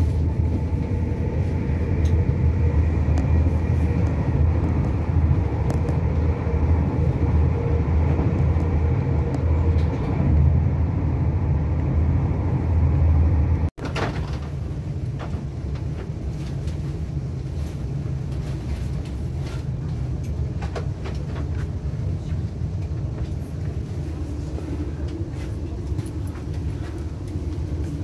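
Passenger train heard from inside the carriage: a loud, steady low rumble of the running train with a steady whine above it. About halfway through, after an abrupt cut, the rumble is quieter and the whine is gone.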